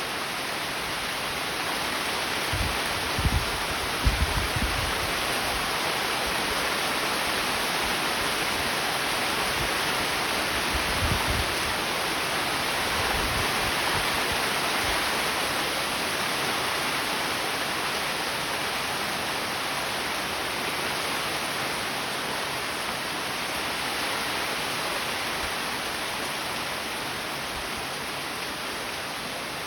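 Steady rain falling, an even hiss. A few brief low thumps come about three to five seconds in and again around eleven seconds.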